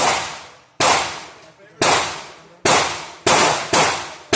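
A string of gunshots, about seven in four seconds at an irregular pace roughly a second or less apart, each sharp crack fading out over most of a second.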